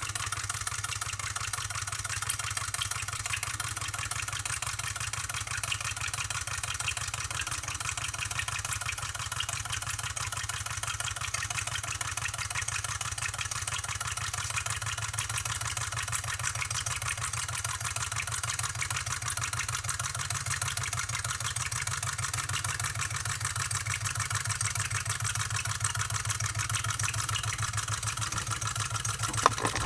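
1895 Rider-Ericsson hot air pumping engine running steadily with an even mechanical clatter. A single sharp click comes shortly before the end.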